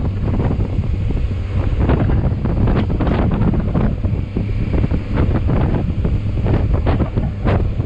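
Wind buffeting the microphone of a moving motorcycle, loud and gusting unevenly, with the motorcycle running underneath.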